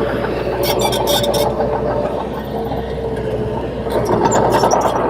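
Crawler bulldozer's diesel engine running steadily under work, its pitch drifting slightly, with a few metallic clinks about a second in and again near the end.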